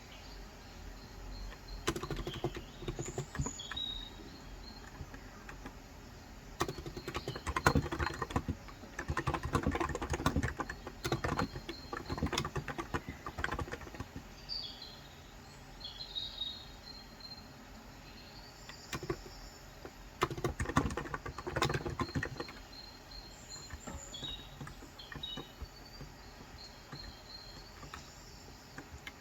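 Typing in three bursts, the first about two seconds in, the longest from about six to fourteen seconds, on a Cox Endeavor 35g electro-capacitive (Topre-style) tenkeyless keyboard. Birds chirp in short high calls throughout.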